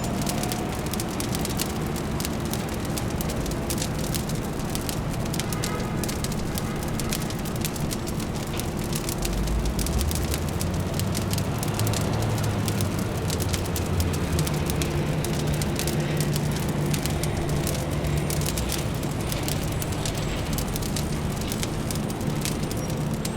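Fire crackling, with dense small pops and snaps over a steady low city hum. A deeper rumble swells in about ten seconds in and lingers for several seconds.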